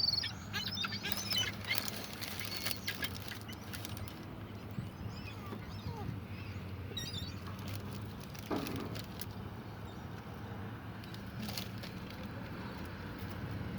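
Seagulls calling: a flurry of short squawks in the first few seconds, then scattered single calls, over a faint steady low hum.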